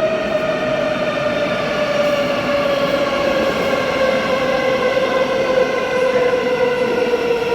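Thameslink electric train's traction motors whining steadily over running noise, the pitch falling slowly as the train slows.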